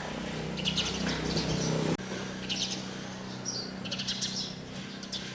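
Small birds chirping in short, irregular clusters over a steady low hum that shifts about two seconds in.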